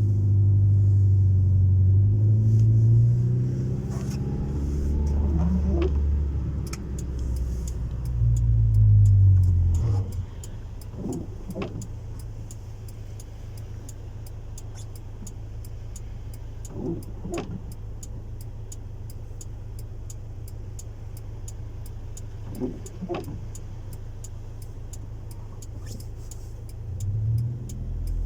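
Honda Civic 1.4i S four-cylinder engine (non-VTEC) through a custom exhaust, revved for about the first ten seconds. It then settles to a steady idle with a short blip of the throttle about every six seconds, and revs up again near the end.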